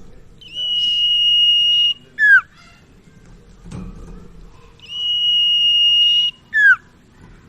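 Common iora (sirtu/cipoh) singing: a long, level, high whistle followed by a quick downslurred note, repeated twice.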